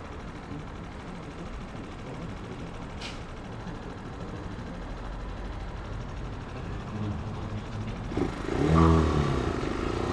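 Italika 250 motorcycle engine running under the rider with low steady road noise, then revving up about eight seconds in, its pitch rising and falling twice as it gets much louder.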